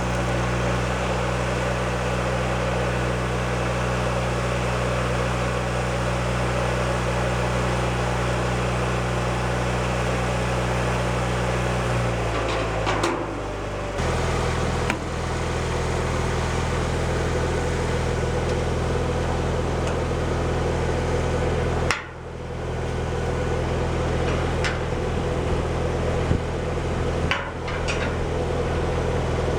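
An engine running steadily, its note changing to a different speed about 13 seconds in, with brief drops near 22 and 27 seconds.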